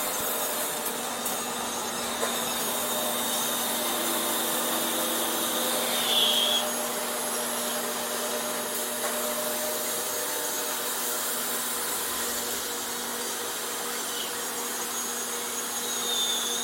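Vertical glass washing machine running: a steady machine hiss with a constant motor hum, with a brief high chirp about six seconds in and again near the end.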